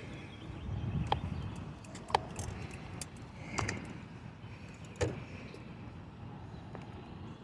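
A bicycle being handled just after the rider dismounts: a few sharp, scattered clicks and light metallic rattles over a low rumble.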